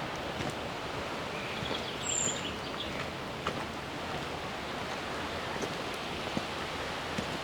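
Steady rush of flowing river water, with a short high bird chirp about two seconds in.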